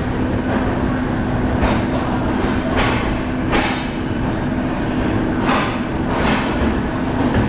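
Passenger train rolling slowly out of a station, heard at an open coach door: a steady rumble and hum with irregular sharp clacks as the wheels cross rail joints and points.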